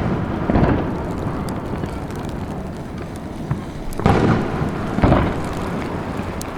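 Aerial firework shells bursting with deep booms, three of them: about half a second in, then about four and five seconds in. A continuous rolling rumble of echoes fills the gaps between them.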